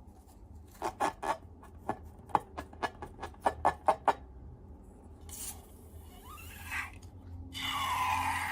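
Slime being worked by hand: a quick run of about a dozen sharp, sticky pops and clicks, then a rough rubbing, scraping sound with a brief squeak that grows louder near the end.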